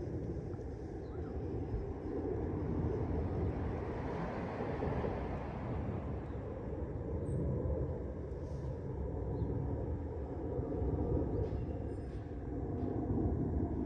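Honda CB400 Super Four's inline four-cylinder engine running through an aftermarket LCI muffler, with a few mild swells in level.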